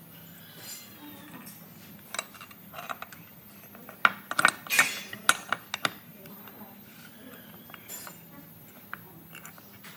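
Small metal parts clinking and knocking against each other and on a hard surface. The clinks come scattered, with a busy cluster of sharp ones about four to six seconds in.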